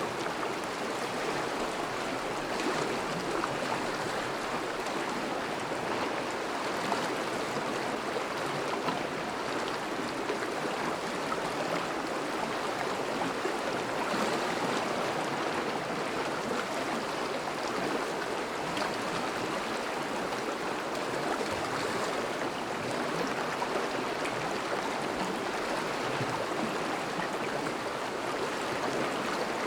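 Thawing river flowing steadily, a constant rush of moving water.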